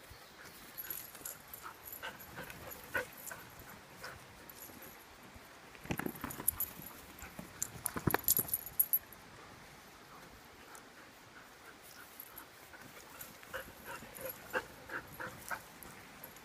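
Labradoodle puppies playing: scattered scuffling and clicking noises with small whimpering sounds. The busiest, loudest stretch comes from about six to nine seconds in.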